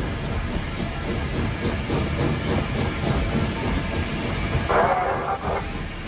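Nevada Northern No. 81, a Baldwin 2-8-0 steam locomotive, running under way as heard in its cab: a steady low running noise with wheel clatter and steam hiss. About five seconds in there is a brief louder, higher-pitched sound.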